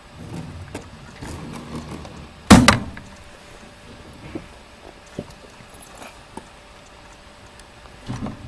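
A single loud thump about two and a half seconds in, with faint clicks and knocks scattered through the rest.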